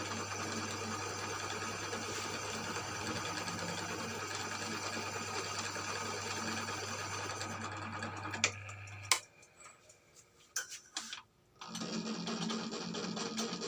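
Cylinder boring machine running steadily with a constant hum while cutting a motorcycle cylinder bore. The motor stops about nine seconds in, a few sharp clicks follow, and a motor starts again at a lower pitch about twelve seconds in.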